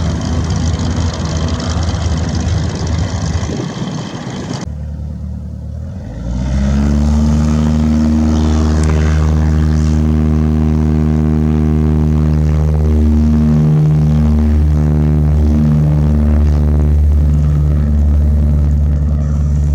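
Propeller aircraft engine running. The sound breaks off abruptly about four and a half seconds in, and from about six seconds a steady, deep engine drone with a strong low hum holds, wavering slightly in pitch.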